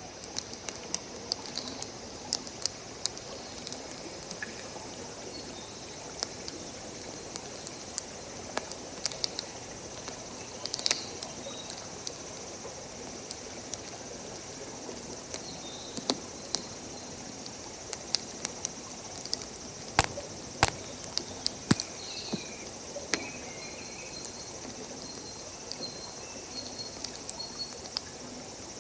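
Wood campfire crackling, with irregular sharp pops and snaps, over a steady rush of running water from a stream. A few faint high chirps come in during the second half.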